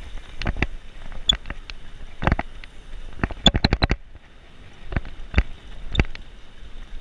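Bicycle rattling and clicking as it rolls along the road: a string of sharp, irregular clicks and knocks, some with a light metallic ping, over a low rumble.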